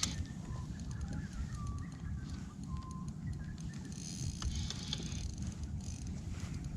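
Low, steady wind rumble on the microphone out on the water, with scattered small clicks and a few faint brief chirps.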